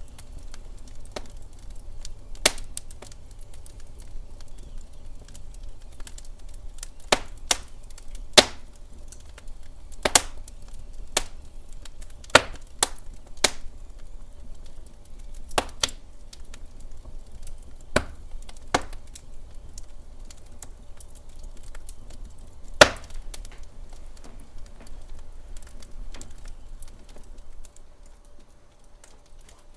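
Wood fire in a fireplace crackling: irregular sharp pops and snaps every second or so over a faint low rumble.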